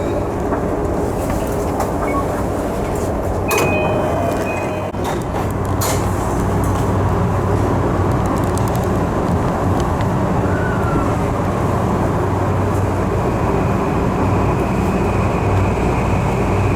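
Tokyu 3020 series commuter train running, heard from inside the passenger car: a steady rumble of wheels and motors, with two sharp clicks about three and a half and six seconds in.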